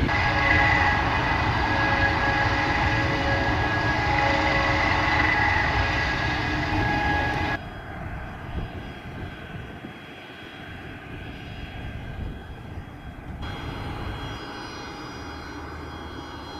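Airbus A400M Atlas's four turboprop engines running loud and steady with several held propeller tones. The sound cuts abruptly to a much quieter engine noise about halfway through, with high tones coming back near the end.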